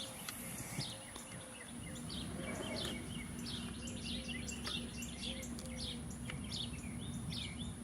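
Birds chirping in the background: many short, high calls, over a faint low steady hum that comes in about two seconds in.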